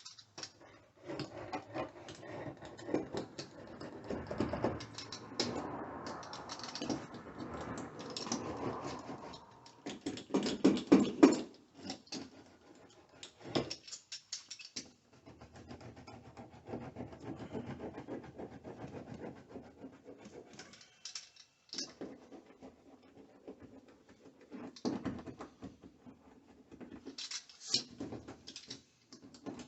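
Irregular scratching, rustling and tapping of hands-on handling work, in uneven bouts with short pauses, loudest about ten seconds in.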